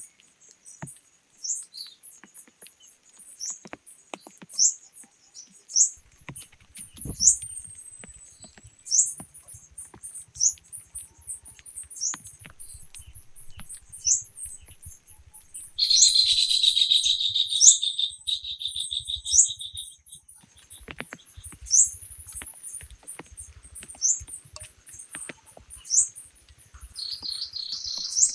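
Birds singing: one repeats a short, high chirp about every second and a half, while another gives a louder trilled call for a few seconds about midway and again near the end. Light scattered tapping sounds underneath.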